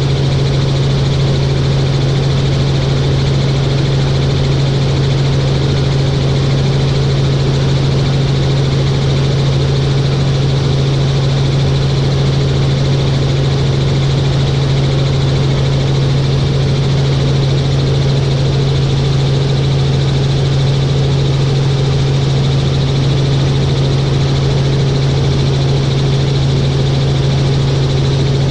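Helicopter in flight, its engine and rotors running in a loud, unchanging drone with a strong steady low hum.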